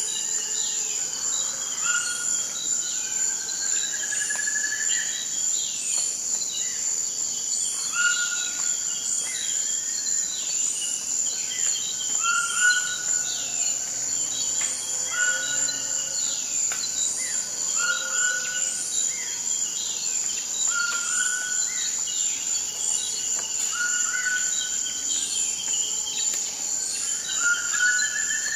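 Forest ambience: a steady high-pitched insect drone with birds calling over it. One bird repeats a short whistled note every couple of seconds among other chirps, and a faint high chirp recurs about once a second.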